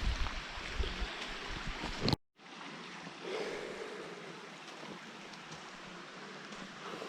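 Mountain stream rushing, a steady noise of running water. It cuts out for a moment about two seconds in and comes back quieter.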